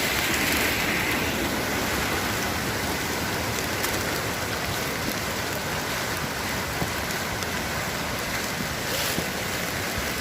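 Mountain waterfall rushing steadily: a continuous, even wash of falling water.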